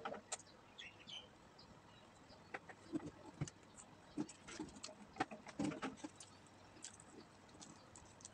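Close-up eating sounds: chewing and lip-smacking on crumb-coated fried chicken and rice eaten by hand, with scattered small clicks and soft mouth noises.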